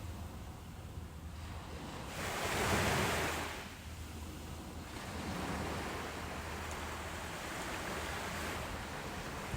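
Ocean waves breaking on a beach: a steady wash of surf, with one wave swelling and breaking louder about two to three seconds in, then settling back into a lower rushing wash.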